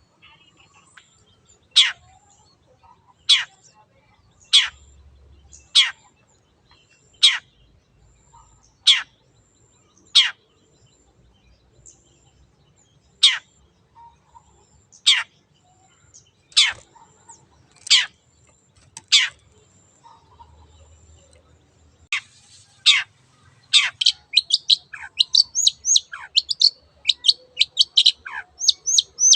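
Long-tailed shrike (cendet) calling: single notes that drop steeply in pitch, about one every second and a half. Near the end these give way to a quick run of short high notes, several a second.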